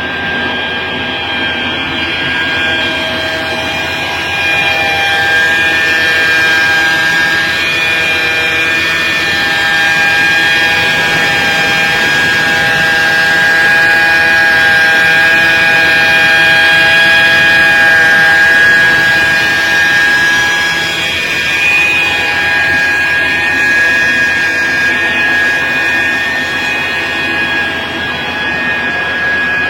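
Machinery running with a steady whine made of several held tones over a noisy bed, a little louder in the middle.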